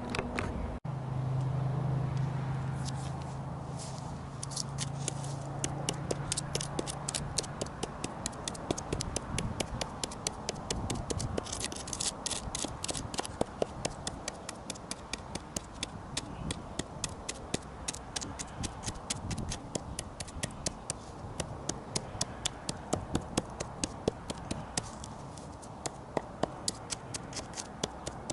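A hand tool scraping and gouging wood in quick, regular strokes, carving out charred wood. A low steady hum runs under the strokes for the first several seconds.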